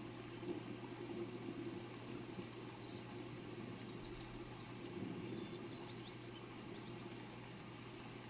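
Steady rain falling, with a few faint, short high bird chirps about halfway through.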